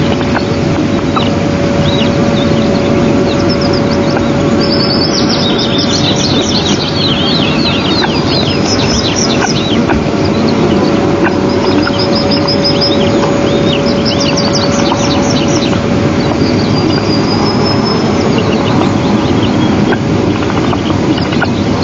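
Quick runs of high chirping bird notes, each run falling in pitch and lasting a few seconds, come three times over a loud, steady rushing noise with a constant low hum.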